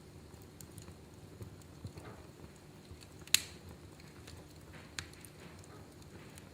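Wood fire in a fireplace crackling: scattered small ticks over a faint low rumble, with a sharp pop about three seconds in and a smaller one about five seconds in.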